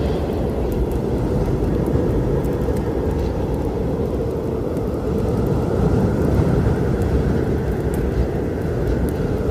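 Steady low rumble of a storm, with a few faint, sparse crackles from a wood fire.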